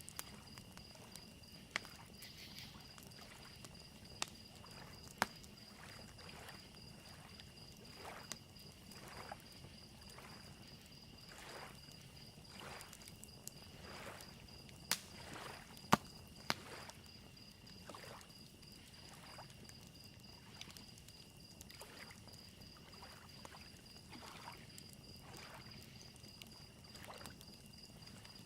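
Soft lake waves lapping on the shore about once a second, with crickets chirping steadily and a few sharp pops from a crackling fire, the loudest about halfway through.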